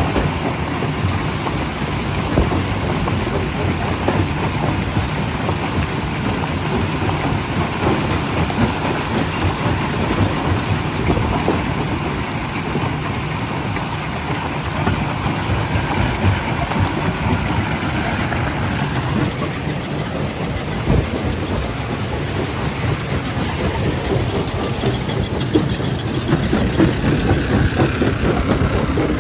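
Primary jaw crusher running and crushing rock: a steady rumble of machinery with a dense, continuous clatter of breaking stone, growing a little louder near the end.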